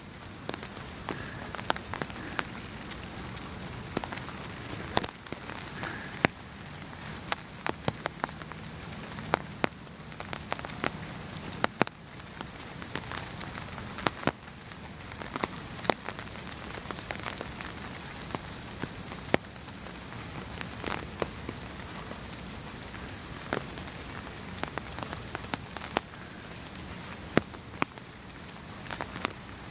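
Steady rain falling, an even hiss with many sharp, irregular ticks of heavy drops striking a hard surface close by.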